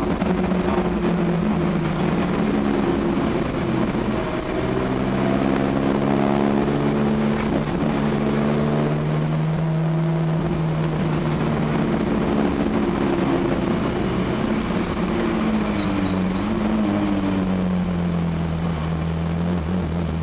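Car engine heard from inside the cabin, its pitch climbing a few seconds in as the car gathers speed, running fairly steadily, then falling away in the later seconds as it slows.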